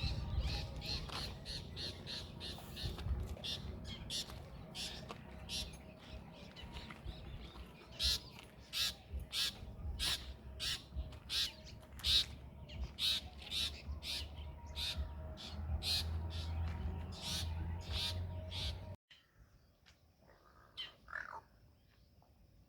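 Birds calling: a long run of short calls repeated about twice a second over a low rumble, breaking off suddenly near the end, after which only a few faint calls are left.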